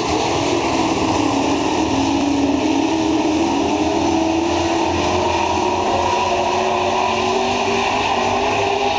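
A field of dirt-track super trucks racing under full power, their engines running loud and steady, the pitch slowly rising and falling as they go around the oval.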